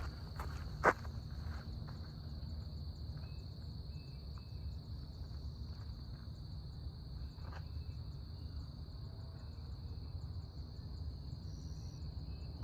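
Insects droning steadily at a high, even pitch over a low rumble, with one sharp click about a second in.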